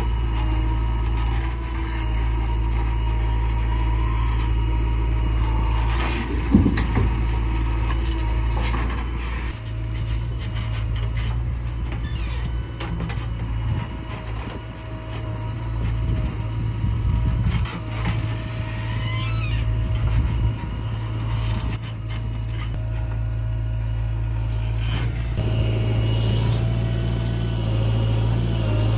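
Heavy diesel engine running steadily under load, with a brief loud knock about six and a half seconds in and a few faint squeals.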